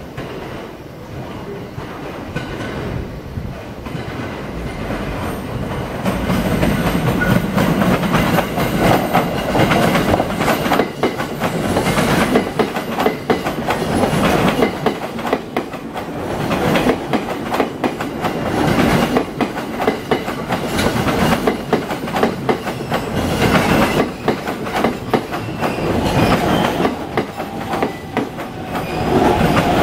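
JR East E231 series 900-subseries electric commuter train arriving, its wheels clattering over the points and rail joints. It gets louder about six seconds in as the cars run close past.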